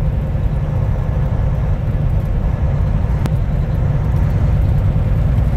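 Semi-truck driving on the highway, heard from inside the cab: a steady low engine and road rumble. A single sharp click about three seconds in.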